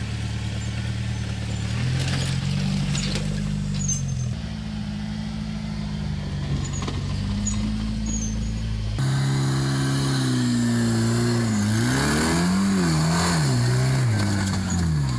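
Off-road trial vehicle's engine running and revving, its pitch swinging up and down several times in the last few seconds. The engine note changes abruptly about four and nine seconds in.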